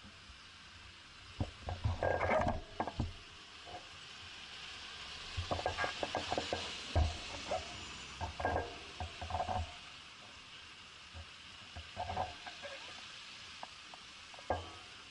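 Bicycle rattling with scattered clicks and knocks as it rides over bumps, heard from a camera mounted on the bike, over a steady hiss that swells for a few seconds midway.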